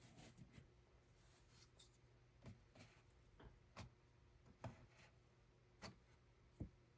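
Hand loom being worked: faint, short clicks and light wooden knocks, about one a second, over a low hum.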